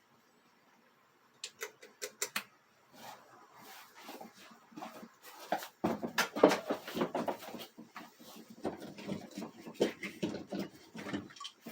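Dry grain rattling and crunching irregularly: a few sharp clicks about a second and a half in, then a denser, louder clatter from about six seconds that stops just before the end.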